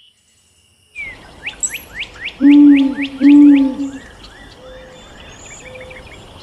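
Birdsong: a quick run of about eight whistled notes, each sliding downward, then two long low-pitched calls, the loudest sounds, about a second apart. Softer chirps follow over a steady hiss.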